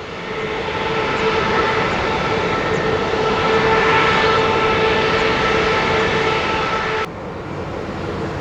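Boeing 787-9's Rolls-Royce Trent 1000 turbofan engines running, a steady whine with several held tones over a rush of noise, growing louder to a peak about halfway. The sound cuts off abruptly near the end, and a quieter rush without the whine follows.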